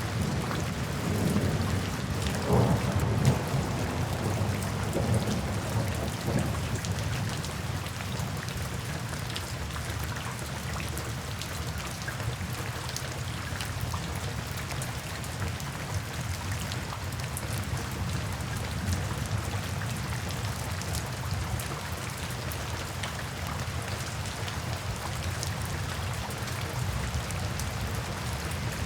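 Steady rain falling into puddles and standing water, with many small drop ticks. A low roll of thunder rumbles through the first several seconds, then fades under the rain.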